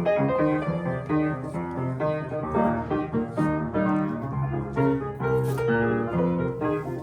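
Solo piano playing, a run of melody notes over held low notes.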